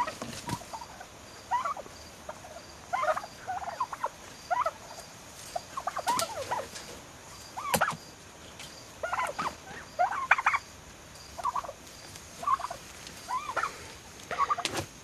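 Young domestic turkeys, about six months old, calling with short repeated calls, some in quick clusters. A few sharp clicks sound among the calls.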